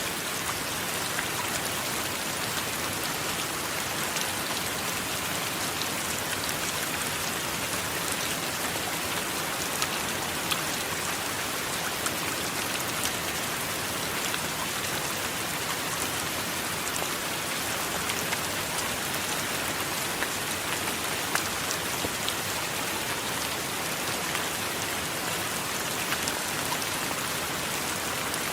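Steady heavy rain, a dense hiss with many sharp individual drop ticks throughout.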